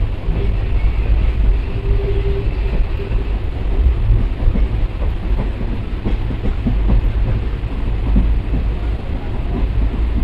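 Passenger train running along the track, heard from inside a coach: a steady low rumble with irregular clatter of wheels over the rails.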